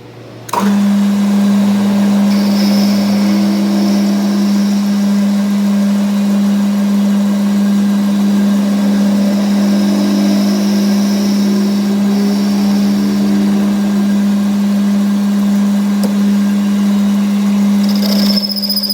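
A machine starts up suddenly with a loud, steady hum and runs at a constant pitch, with faint higher whines over it.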